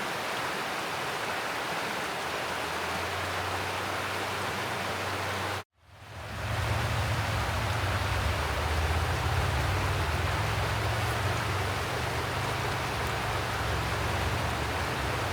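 Mountain stream water rushing over rocks, a steady wash of sound. About six seconds in it cuts out briefly, then comes back with a deeper rumble underneath.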